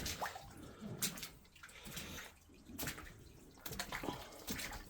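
Footsteps wading through ankle-deep water in a mine tunnel, splashing at each step.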